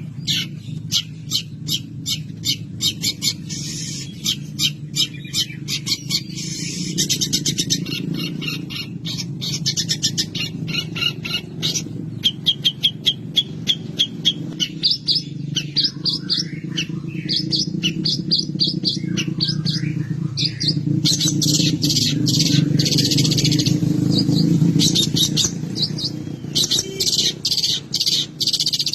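Long-tailed shrike singing a fast, varied song of rapidly repeated chirps and trills, filled with mimicked calls of other birds. A steady low hum runs underneath.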